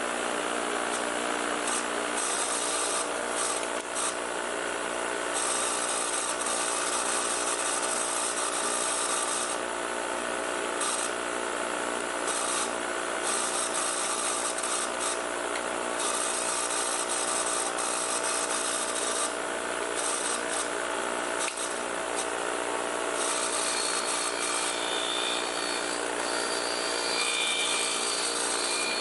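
Bench grinder running with its wire wheel brushing dirt and corrosion off brake banjo bolts. A continuous scratchy rasp over the motor's steady whine, with the harsh top of the scratching coming and going as the bolts are worked against the wheel. The grinder sounds like it needs a new bearing.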